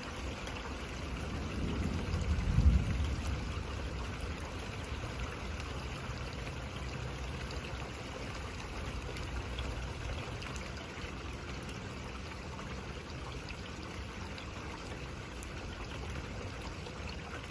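Steady rain hissing, with a brief low rumble of thunder swelling and fading about two seconds in.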